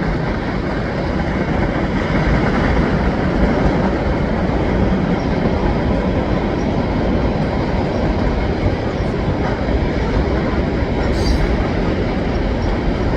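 CN freight train's cars rolling past on the rails, a steady, unbroken rumble of wheels on track.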